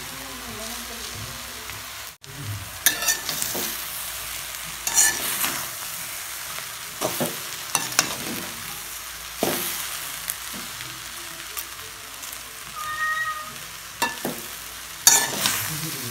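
Puttu and fried onion mixture sizzling in a metal pan while a spatula stirs and chops it, scraping against the pan every second or two.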